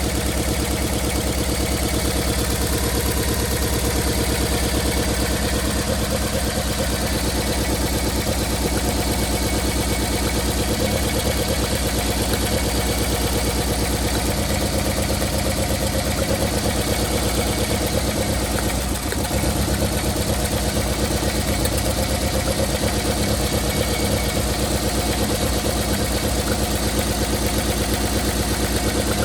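Toyota 4A-FE four-cylinder engine running steadily at idle with a misfire, which the owner puts down to a blown head gasket.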